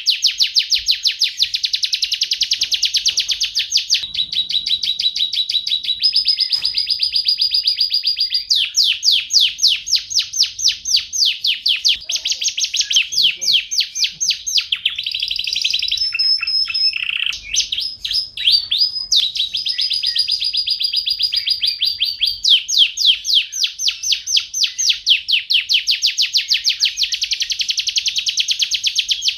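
Domestic canary singing nonstop: long, very rapid trills of repeated notes, switching to a new phrase every few seconds, broken by a few steady whistled notes held for a second or two.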